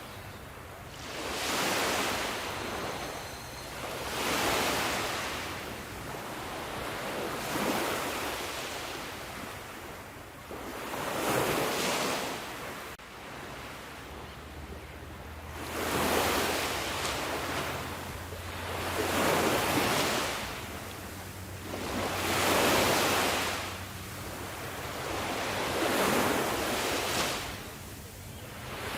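Sea waves breaking and washing on a shore, each surge swelling and fading every three seconds or so. Wind is heard under the surf.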